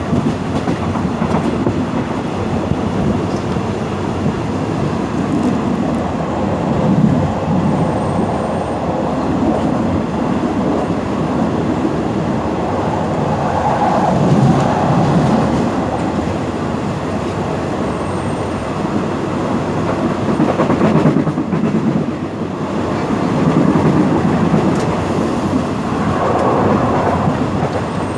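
Passenger train running along the track: a steady rumble of wheels on rails that swells and eases every few seconds.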